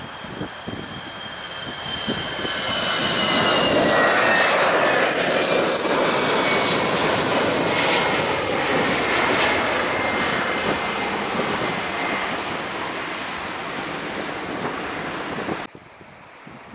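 Airliner passing close by: its engine noise swells to a loud peak a few seconds in, with a high whine that falls in pitch as it goes past, then fades. The sound cuts off abruptly near the end.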